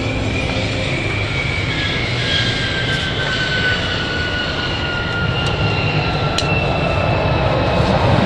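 Light propeller airplane on approach to land: a steady engine drone with a high whine that slowly falls in pitch, getting louder near the end.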